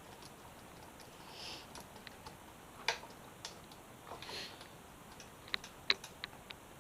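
Scattered light clicks and taps of hand tools and small metal parts as bolts are worked loose on a motorcycle, with the sharpest clicks about three seconds in and just before six seconds, and two brief soft rustles between them.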